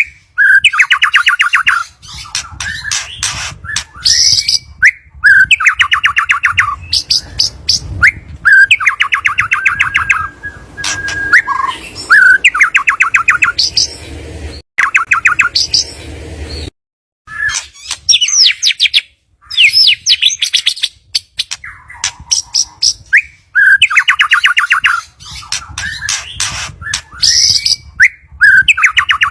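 White-rumped shama (murai batu) song: loud repeating phrases of sharp whistled notes, each followed by a fast rattling trill, coming every three to four seconds. It is the kind of singing played as a trigger to get a caged shama to sing.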